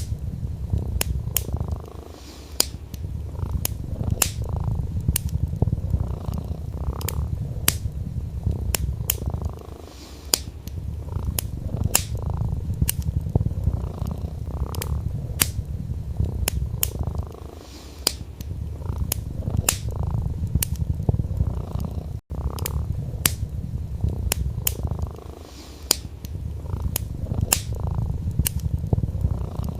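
Domestic cat purring steadily, the purr easing off briefly about every seven seconds, over a wood fire crackling with frequent sharp pops. The sound cuts out for a split second about two-thirds of the way through.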